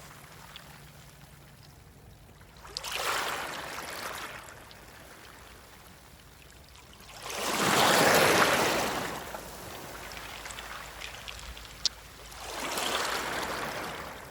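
Small waves washing up a pebble beach: three rushes of water that swell and fade about five seconds apart, the middle one loudest, with a single sharp click near the end.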